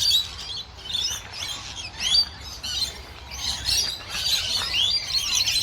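A flock of many small aviary birds calling at once: a loud, dense chorus of overlapping chirps and squawks with no pause.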